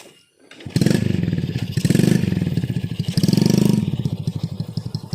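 A small motorcycle engine starts about a second in, is revved three times, then settles into a steady, evenly pulsing idle.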